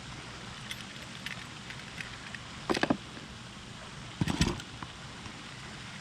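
A few light clicks, then two short clattering knocks, one near the middle and a louder one a little later, over a steady hiss.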